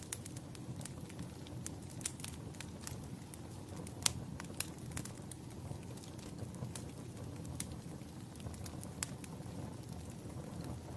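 Wood fire crackling in a fireplace: scattered sharp pops and ticks over a steady low rumble, with the loudest pop about four seconds in.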